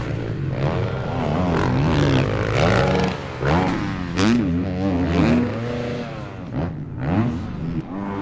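Motocross bikes' engines revving, pitch climbing and dropping over and over with throttle and gear changes, several engines overlapping.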